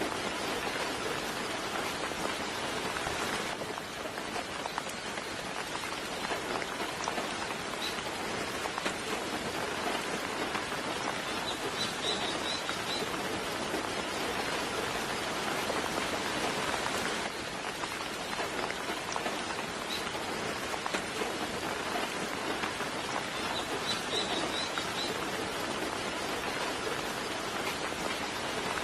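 Steady, gentle rain falling, an even hiss of drops. A bird gives short clusters of high chirps twice, about halfway through and again near the end.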